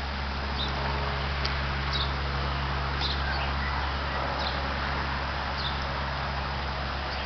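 Short high bird chirps repeating every second or so over a steady low hum.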